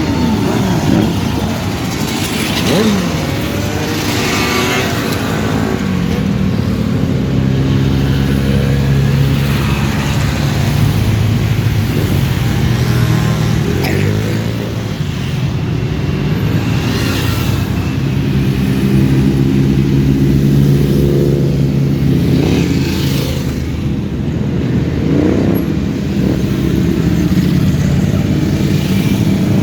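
Motorcycle engines running in a slow-moving group of bikes, a steady engine drone with revs rising and falling every few seconds.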